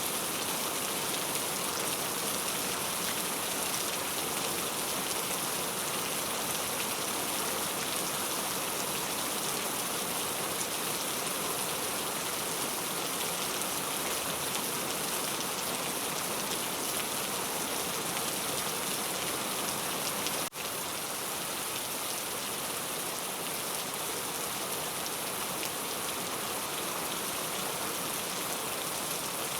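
Heavy rain falling steadily, a dense even hiss. It drops out for an instant about two-thirds of the way through and comes back slightly quieter.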